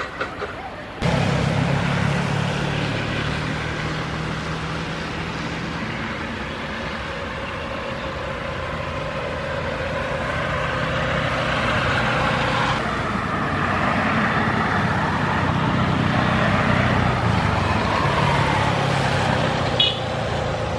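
Boeing 787 Dreamliner's jet engines running at high power with a steady rushing noise and a low hum, mixed with the hiss of heavy rain and spray. The sound cuts in suddenly about a second in and stays loud throughout.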